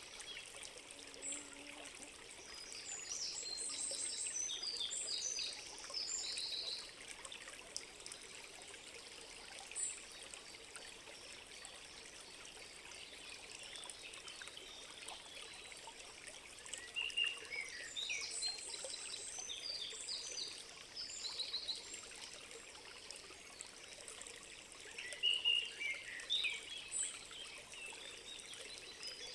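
A trickling stream with birds singing over it. Bursts of high, rapid song come a few seconds in and again around the middle, with lower chirps near the end.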